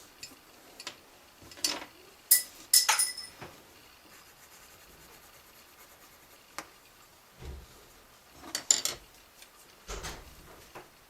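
Small hard objects clinking and clicking against each other and the desk, a few sharp clinks with a short ring: drawing tools being handled, picked up and set down. There are softer scrapes and a couple of dull thumps between them.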